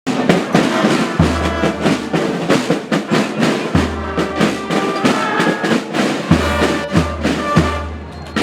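Band music: dense, steady drumming with brass instruments playing over it.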